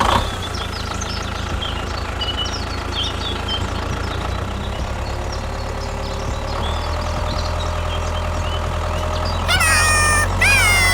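An engine running steadily at idle, with birds chirping over it. Two loud drawn-out animal calls, each falling in pitch, come near the end.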